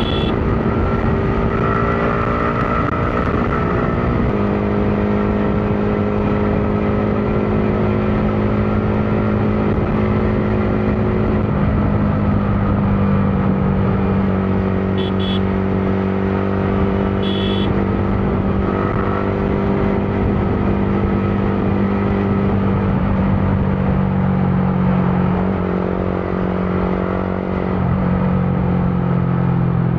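Motorcycle engine running at a steady riding pace under constant wind and road noise, its pitch stepping down and up a few times as the speed changes. Short high horn beeps sound at the start, about halfway through, and again a couple of seconds later.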